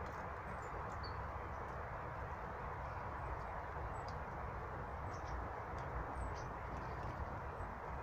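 Faint, short, high chirps of small birds, scattered over a steady background rumble and hiss.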